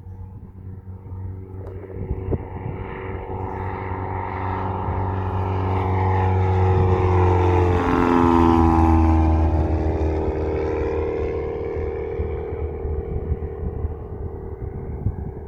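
Cessna 172M Skyhawk's four-cylinder Lycoming piston engine and propeller at climb power on departure, passing by: the drone grows louder, drops in pitch as it passes about eight seconds in, then fades away.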